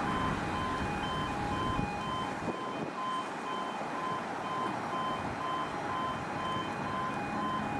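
Level crossing warning alarm on an automatic half barrier crossing, sounding as a steady repeating sequence of two alternating tones, over wind noise.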